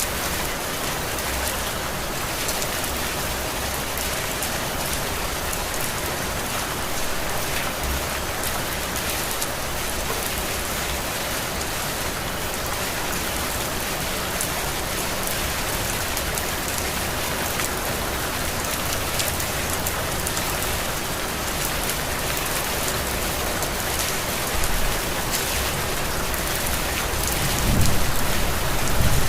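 Heavy rain falling steadily, an even hiss of drops on surfaces. A low rumble swells near the end.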